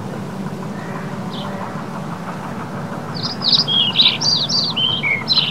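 Small bird chirping, a quick run of short high notes starting about three seconds in, over a steady low background hum.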